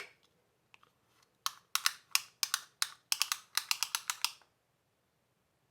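Retractable tape measure being pulled out: a quick, irregular run of about twenty sharp clicks over some three seconds, starting about a second and a half in.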